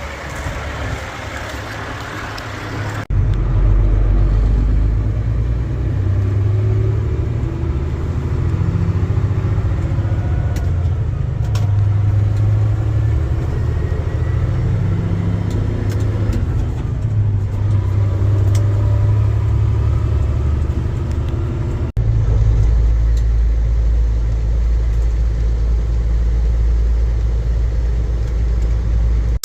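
Semi truck's diesel engine running under way, a loud, steady low rumble whose pitch rises and falls as it pulls. It is quieter for the first few seconds, then jumps up abruptly, with another sudden change about 22 seconds in.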